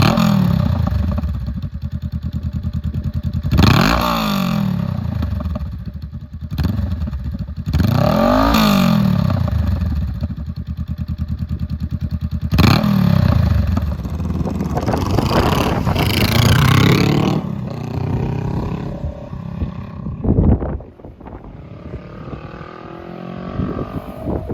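Honda Rebel 500 parallel-twin motorcycle engine idling and being revved several times, each blip rising in pitch and falling back to idle, with a longer higher rev about two-thirds of the way through. Near the end the sound drops suddenly to a quieter engine sound.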